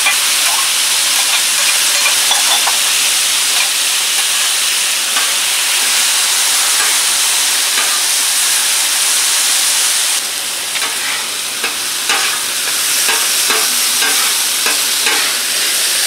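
Green beans and cherry tomatoes frying with oil on a hot Blackstone flat-top griddle, a loud steady sizzle with steam coming off. About ten seconds in the sizzle eases a little, and a metal spatula scrapes and taps on the steel plate as the beans are spread out.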